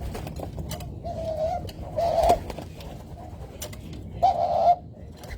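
A dove cooing: three short, low coos, the last two the loudest.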